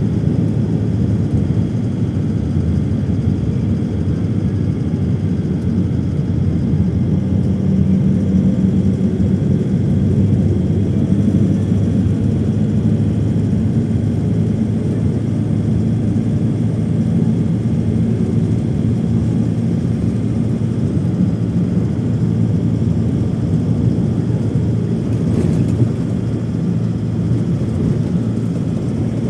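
Airliner cabin noise: the engines' steady, even low drone with a constant hum, heard from inside the plane in flight.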